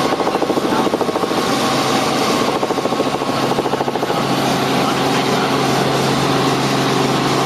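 Helicopter in flight: steady engine and rotor noise with a fast, even rotor chop, more pronounced in the first few seconds.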